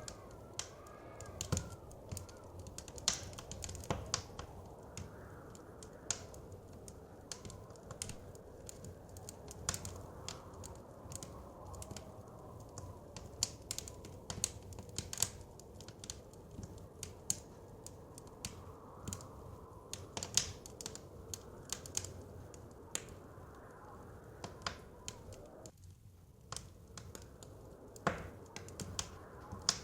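Wood fire crackling, with frequent irregular pops and snaps, over a steady blizzard wind. The wind carries faint whistles that rise and fall.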